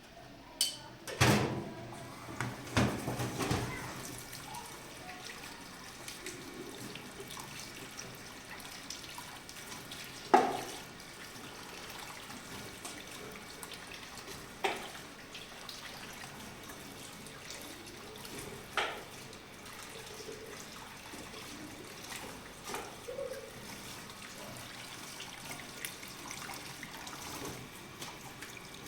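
Steady running water, with a few sudden knocks. Several come close together in the first few seconds, the loudest about ten seconds in, and a few more follow later.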